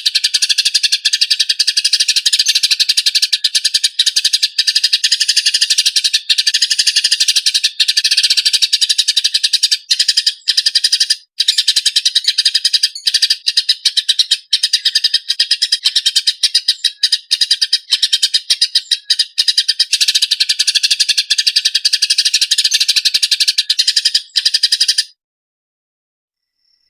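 A small songbird singing a loud, continuous, very rapid rattling trill with brief breaks, stopping about 25 seconds in. This is a masteran recording of the fast 'roll' and 'tembak' (shooting) phrases used to train competition songbirds.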